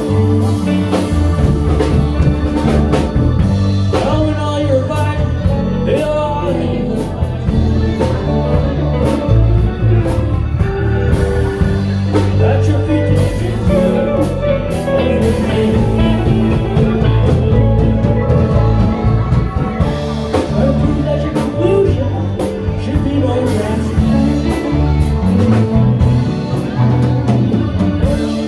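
A band playing a song live, with a singing voice over the instruments.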